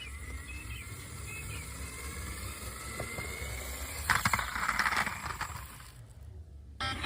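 Toy car's plastic mechanism whirring with a faint rising whine, then rattling louder for about a second, four seconds in.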